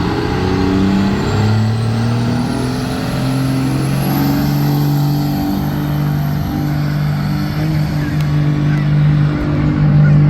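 Diesel pickup truck engine running hard under load during a sled pull, its pitch climbing in steps. A high whistle, typical of a turbocharger spooling, rises over the first few seconds and then holds steady.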